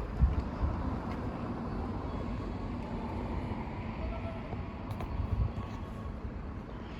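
Steady rushing noise of traffic going over a level crossing, with wind buffeting the microphone in the first second.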